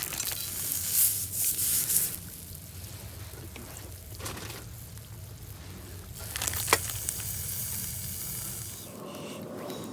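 Food sizzling in a hot pan, a steady hiss with two louder spells of spitting and crackling, about a second in and again near seven seconds.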